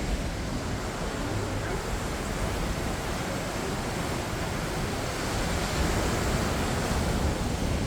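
Steady rushing noise of a waterfall, with wind rumbling on the microphone.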